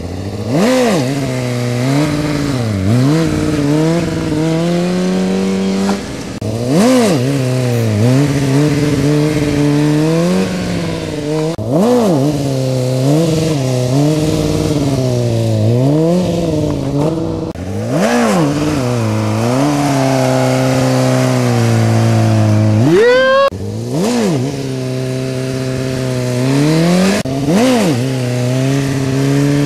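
1999 Kawasaki ZX-6R's inline-four engine revving up and falling back in repeated throttle blips, every one to three seconds, as the rider lifts the front wheel into slow wheelies. About 23 seconds in, one rev climbs much higher and sharper than the rest.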